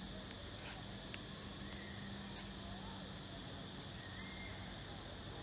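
Insects chirring steadily over a low, even hum, with a few faint clicks in the first second.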